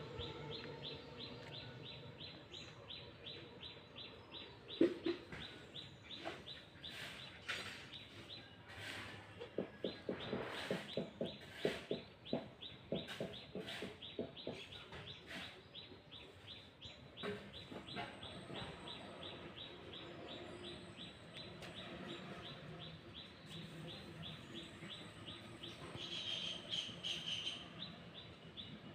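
Village yard sounds: chickens clucking, with a louder run of clucks about a third of the way in, over a fast, even run of high chirps, several a second.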